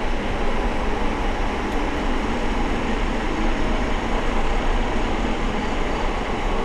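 Wind rushing over the microphone while riding a bicycle, a steady rumbling noise with no breaks.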